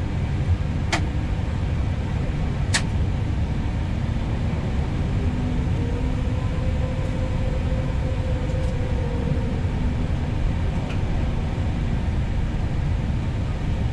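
Steady rumble inside an Airbus A320neo cockpit while taxiing after landing, with two sharp clicks in the first few seconds and a faint humming tone that comes and goes in the middle.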